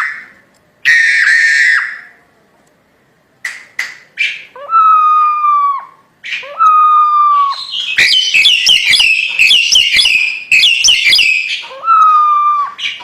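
Crested myna (jalak hongkong) singing loudly. A harsh call comes about a second in, then a few clicks and three long whistled notes that fall slightly in pitch, and a dense run of rapid chattering calls from about eight to eleven seconds.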